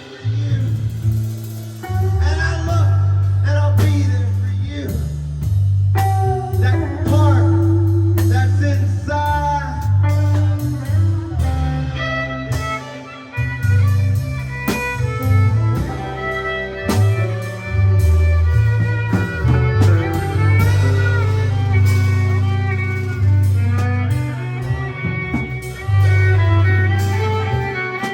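Live rock band playing an instrumental passage: guitar lines with bending, wavering notes over a heavy bass line and drums.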